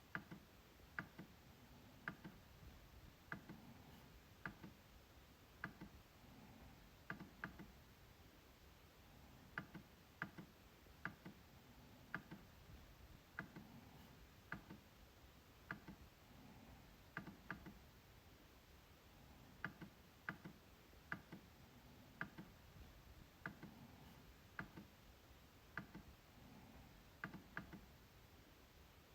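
MacBook trackpad being clicked over and over: sharp, short clicks about one to two a second, several coming in quick pairs, with a few brief pauses.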